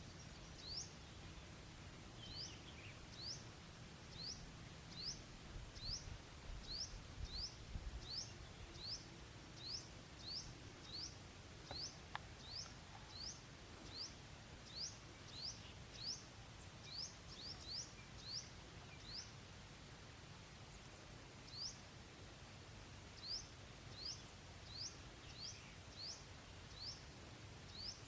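A bird's short, high chirp, each sweeping upward, repeated about once or twice a second for the whole stretch. The chirping stops for a couple of seconds around two-thirds of the way through. Faint outdoor background noise sits underneath.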